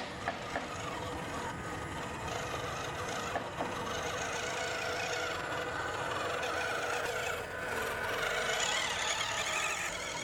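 Electric motor and gearbox of an RC model truck whining steadily as it drives, with a few light clicks.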